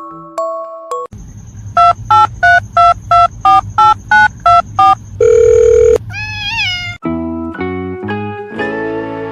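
Music with chime-like notes cut into by a run of about eleven loud electronic beeps, roughly three a second and ringing like a telephone. A long steady beep follows, then a short warbling chirp, and plucked-string music starts about seven seconds in.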